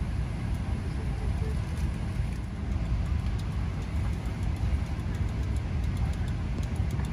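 Steady low rumble and rush of a Boeing 777-300ER's cabin air-conditioning while parked at the gate, with faint light ticks.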